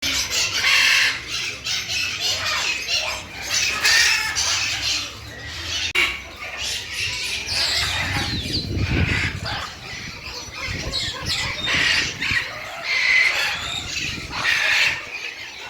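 Birds squawking and chirping in repeated loud calls. A low rumble comes in about halfway through.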